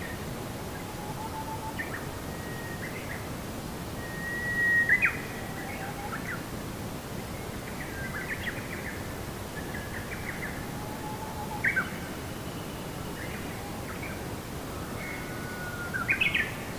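Songbirds chirping and whistling in short, scattered calls, some held as brief steady whistles, over a steady background hiss. The loudest calls come about five seconds in, near twelve seconds and near the end.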